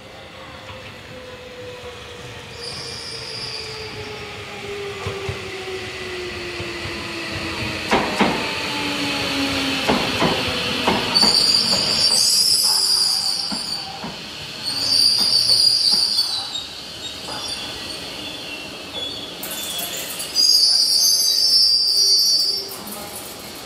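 Electric commuter train pulling into the platform and braking: its motor whine falls steadily in pitch, and the wheels clack over rail joints around eight to eleven seconds in. Loud high-pitched squeals of the wheels and brakes come in three bursts from the middle to near the end.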